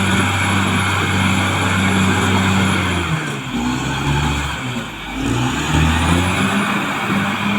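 Caterpillar D6R XL bulldozer's diesel engine running steadily. About three seconds in its pitch drops and wavers, and it picks back up to a steady speed about six seconds in.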